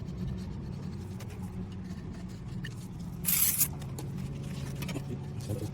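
A short hiss of aerosol degreaser spray, about half a second long, a little over three seconds in. It is being sprayed onto the clutch surfaces to clear grease before the new plate goes on. Faint handling noises and a steady low hum run underneath.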